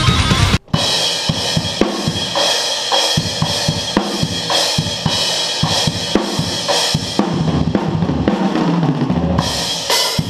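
A dense band mix cuts off abruptly about half a second in, leaving a drum kit playing alone: rapid kick drum hits with snare and cymbals.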